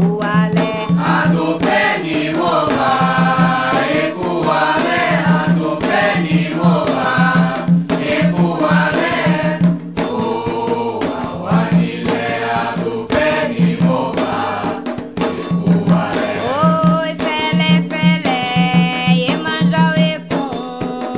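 Candomblé chant for Xangô, sung voices over hand drums beating a steady rhythm.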